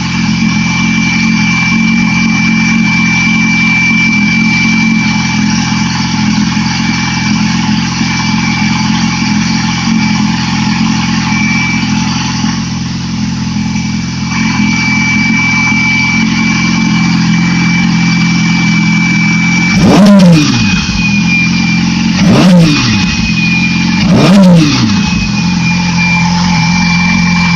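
2008 Yamaha R6 four-cylinder engine idling steadily, then blipped three times a little past two-thirds of the way in, each rev rising and falling quickly about two seconds apart.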